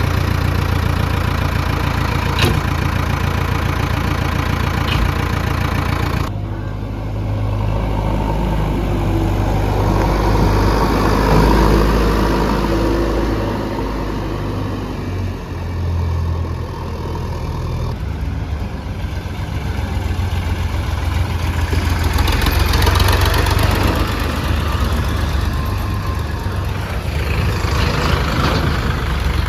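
Diesel engine of heavy earthmoving machinery, a backhoe loader or tractor, running steadily at working speed. The sound changes abruptly about six seconds in and again about eighteen seconds in, as between separate recordings.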